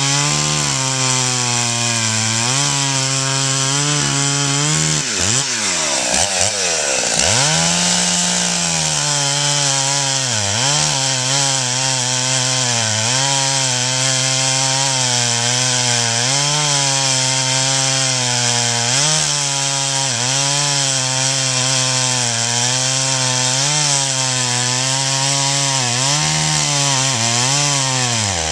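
Husqvarna 61 single-cylinder two-stroke chainsaw running at high revs. Its pitch wavers and sags every few seconds, with one deep drop nearly to idle and a climb back up about six seconds in. It keeps running without stalling after the flywheel and cylinder were cleaned of packed oily dirt and sawdust.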